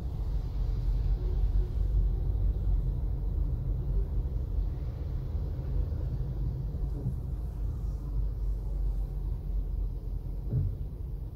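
Low, steady rumble of a Toyota Corolla's engine and road noise heard inside the cabin through a dashcam microphone, with a single soft knock about ten seconds in.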